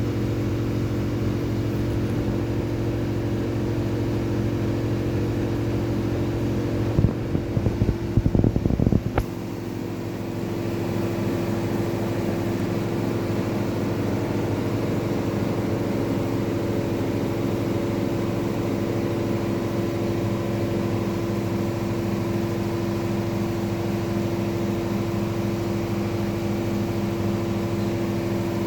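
Rex-Electrolux RJ 7160 TA washing machine running mid-cycle: a steady motor hum with several steady tones. About seven seconds in there are two seconds of irregular knocking, then the deep hum drops away and a steadier, higher tone carries on, as the drum's running changes.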